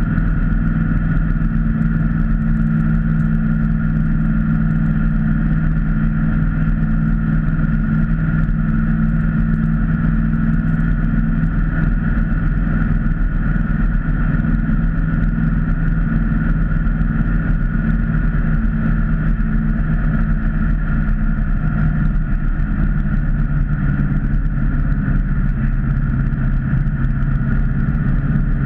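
Ford Mustang's engine running steadily at cruising speed, heard from inside the cabin along with low road rumble. The engine note drops a little about two-thirds of the way through.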